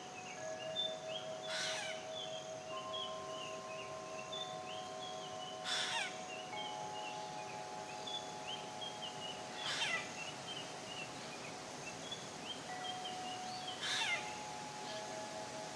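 Forest birdsong: a loud, harsh, falling call repeats about every four seconds over a constant chatter of small chirps. Several steady, held tones run underneath.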